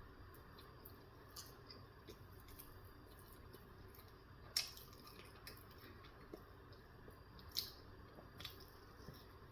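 Faint wet chewing and mouth clicks from eating a breakfast bagel sandwich. Two sharper clicks stand out, about four and a half and seven and a half seconds in.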